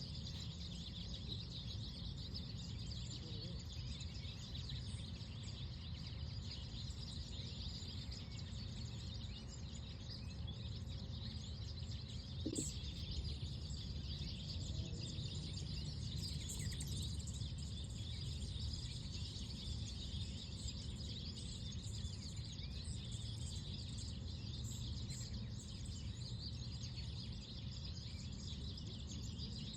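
Outdoor park ambience: birds chirping in a dense, distant chorus over a steady low rumble. One brief short sound about twelve seconds in.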